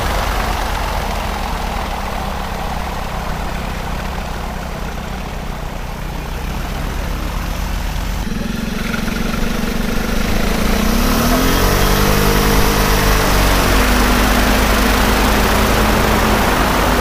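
Motorcycle petrol engine driving the propeller of a homemade light airplane, running steadily as the plane taxis. Its sound changes abruptly about eight seconds in, and a few seconds later its pitch rises and then falls as it is revved up and eased off.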